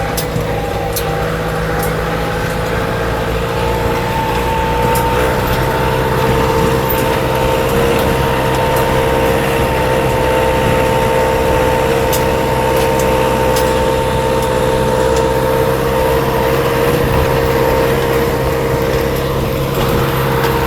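Tractor engine running steadily under way, with a steady whine over the engine hum and scattered light clicks and rattles.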